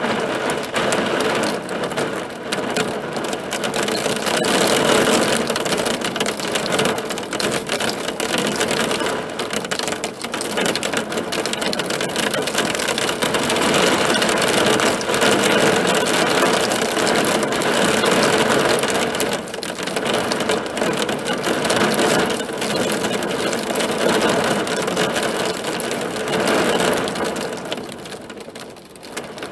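Hailstones drumming on a hard surface: a loud, dense rattle of countless small impacts that eases briefly near the end.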